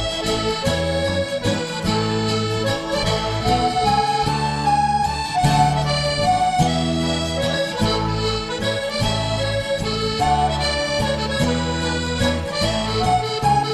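Background music: an accordion playing a traditional-sounding tune in held chords over a steady bass, changing chord about once a second.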